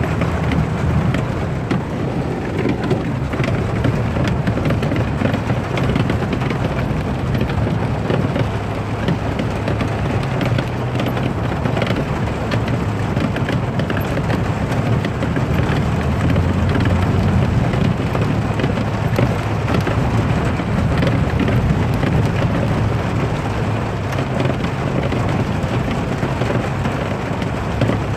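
Heavy rain: a dense, steady hiss over a continuous low rumble.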